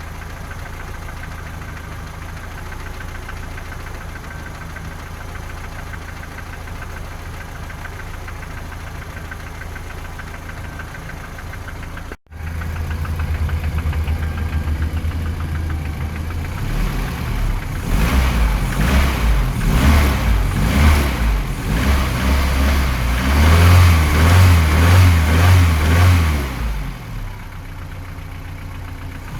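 Toyota 3S-FE four-cylinder engine idling with a knock, then after a brief break revved up and down repeatedly for about ten seconds before dropping back to idle. The knock comes from around cylinders 3 and 4, near the camshafts or below; valve clearances, cam gears and cam journals have been checked, and the owner takes it for a trait of the 3S engine family.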